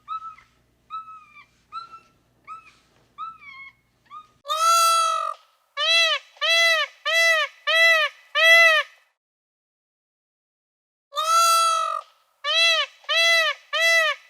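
Animal calling: a long honking call followed by a quick series of about five short honks, then after a pause of about two seconds the same sequence again. Fainter, higher short calls come before it in the first few seconds.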